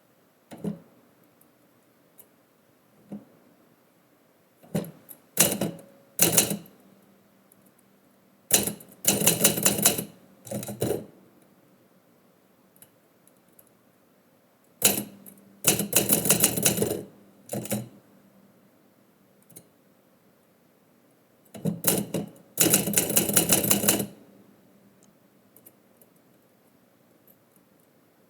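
Typewriter keys striking in quick bursts of rapid clacks, with pauses of a few seconds between the bursts, as a poem is typed.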